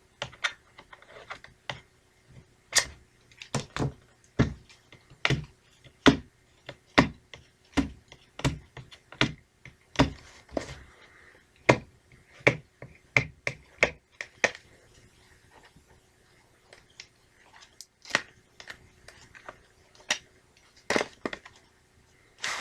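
Hands working at a plastic VHS case to break its seal sticker: irregular sharp clicks and taps, one or two a second, with a quieter stretch about two-thirds through.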